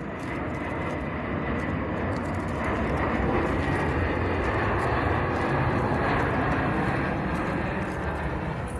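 Jet airliner on landing approach passing low overhead: engine noise builds over the first few seconds, holds at its loudest with a thin steady whine above it, then eases slightly near the end.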